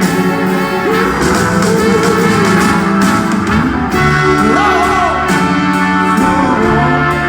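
Live band playing a slow soul song in an instrumental stretch between sung lines, with held chords and a gliding lead line over them.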